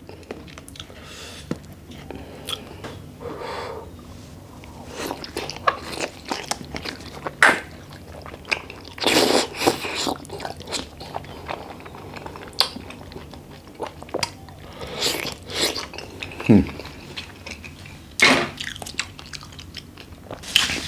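Close-miked eating: a person chewing grilled oyster in sweet chili garlic sauce, with wet mouth noises and small clicks, eating straight from the half shell. There are louder spurts about halfway through and again near the end.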